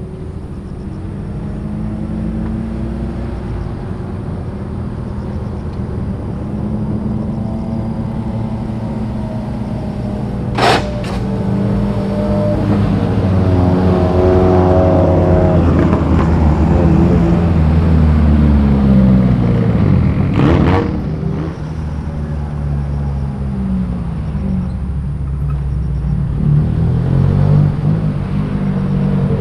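Several car engines running as the cars drive slowly past one after another. Their pitches rise and fall, and the sound builds to its loudest midway. There are two sharp cracks, about ten seconds apart.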